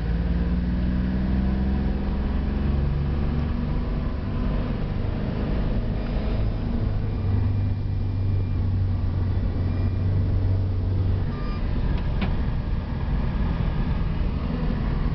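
Citroën SM's 3.0-litre Maserati V6 engine droning loudly under way, heard from inside the cabin with road noise; its pitch shifts in the first few seconds, holds low and steady, then eases off about eleven seconds in.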